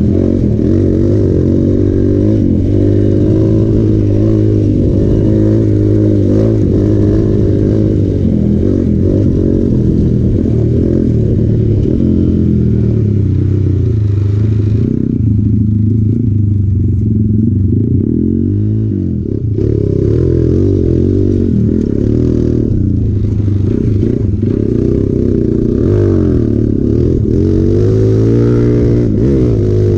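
Hero Impulse's single-cylinder four-stroke engine under riding load, its revs rising and falling with the throttle. A little past halfway it eases off and runs quieter for a few seconds, then picks up again.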